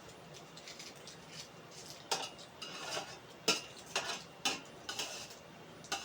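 Eating utensils clinking and scraping against a plate or bowl during a meal: a string of sharp clicks, a few of them louder, with short scrapes in between.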